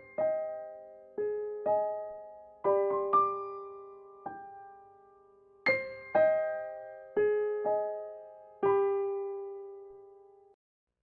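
Slow solo piano music: single notes and chords struck about once a second and left to ring away. It cuts off abruptly near the end.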